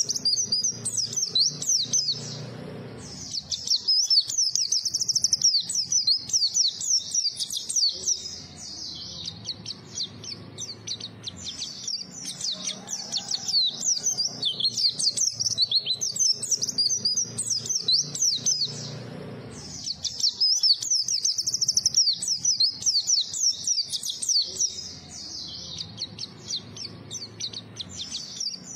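Pleci (white-eye) singing a fast, high twittering song in long runs with brief pauses.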